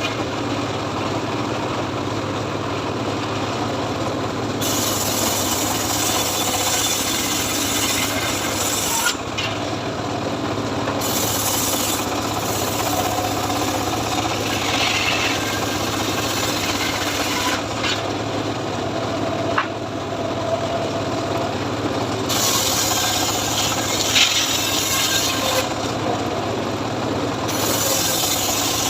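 Homemade sawmill cutting a teak log: its engine runs steadily under a rasping saw hiss that swells and drops back several times as the blade works through the wood.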